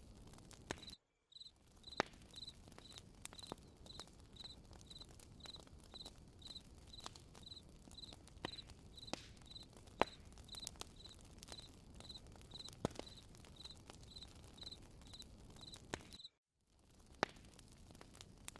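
Campfire crackling, with irregular sharp pops over a soft hiss, while a cricket chirps steadily about three times a second. Everything cuts out briefly twice, once about a second in and once near the end.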